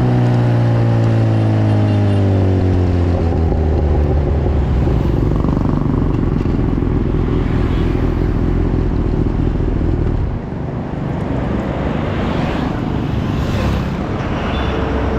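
Kawasaki Ninja 1000SX's inline-four running through an Akrapovic full-system exhaust, its note falling steadily over the first few seconds, then settling into a low, rough rumble.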